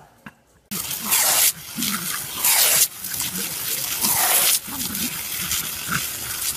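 Garden hose spray nozzle hissing in three bursts of about a second, with dogs' noises as they snap at the stream of water.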